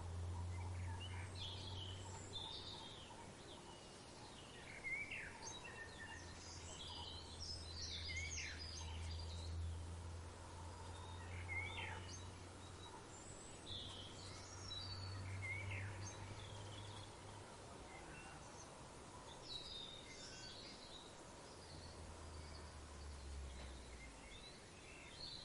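Several birds calling in a natural ambience, with short chirps and quick downward-sweeping calls scattered throughout, over a low steady hum that fades out about two-thirds of the way in.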